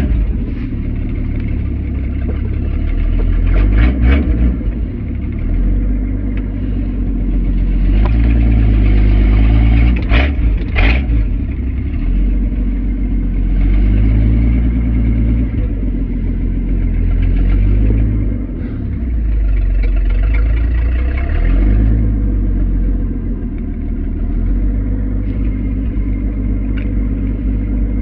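Old carbureted truck's engine running, its speed rising and falling several times as it is revved or driven. A few short knocks come about four and ten seconds in.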